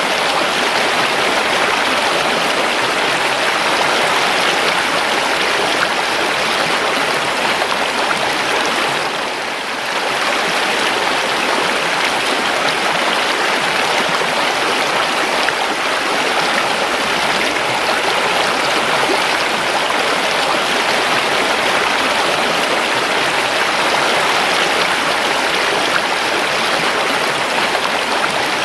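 River water flowing steadily: a continuous rushing of water with no breaks, briefly dipping in level about nine seconds in.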